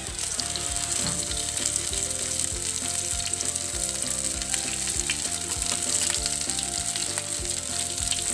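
Rice cutlets shallow-frying in a little oil in a non-stick pan, sizzling steadily, with a few light taps and scrapes of a perforated steel spatula as they are turned.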